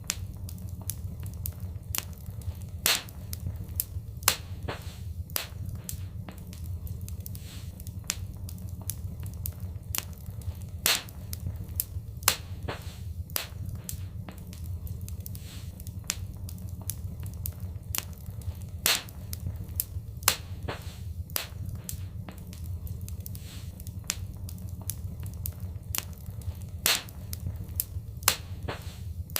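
Fireplace fire crackling, with many small irregular snaps and a few louder pops over a steady low rumble. The louder pops come in pairs that recur about every eight seconds.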